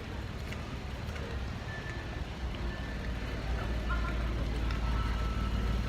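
A car engine running with a steady low rumble that grows louder about three and a half seconds in, over the background of the car meet.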